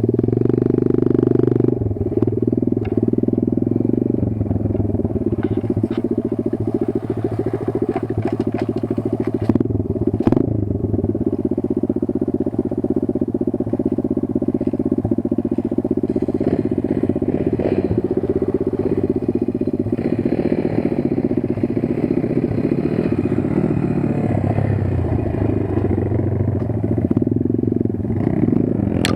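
Kayo 140 pit bike's single-cylinder four-stroke engine running at fairly steady revs, its pitch shifting a few times, with a sharp clack about ten seconds in.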